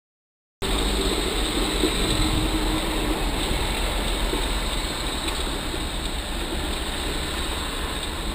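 Steady engine and road noise of a moving car heard from inside the cabin, a low rumble that cuts in abruptly about half a second in.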